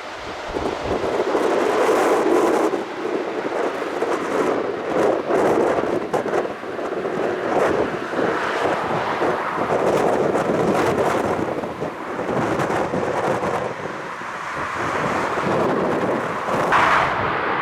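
Jet engine rumble from an Airbus A320neo landing, a rushing, crackling noise that rises and falls, mixed with wind buffeting the microphone.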